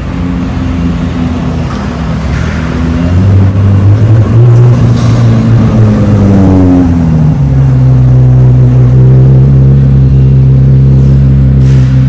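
Chevrolet Corvette Z06's 5.5-litre flat-plane-crank V8 running loud at a steady pitch. It grows louder about three seconds in, slides down in pitch over a second or so around the middle, then holds steady at the lower pitch.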